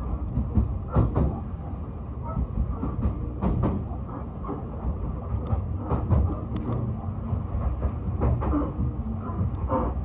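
Odakyu Romancecar express train running along the track, heard from inside the carriage: a steady low rumble with irregular clicks and knocks from the wheels on the rails.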